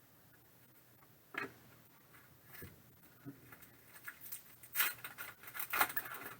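Trading cards being handled and flipped through, with scattered light rustles and clicks that grow busier in the last couple of seconds.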